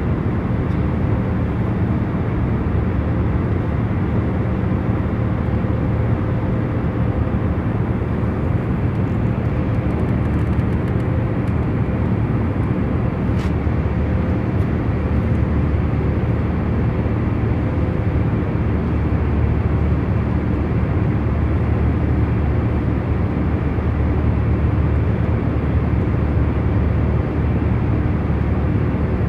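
Airliner cabin in cruising flight: a steady, even rumble of engine and airflow noise, heavy in the low end, with a faint steady hum underneath.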